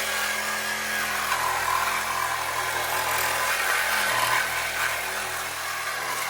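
Cordless power saw running steadily as it cuts through exhaust pipe for a muffler delete, a continuous harsh metal-cutting noise.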